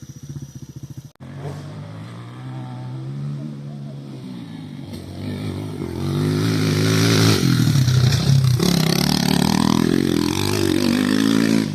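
Honda XL125S motorcycle engine running and revving, its note rising and falling repeatedly. It breaks off abruptly about a second in and is louder through the second half.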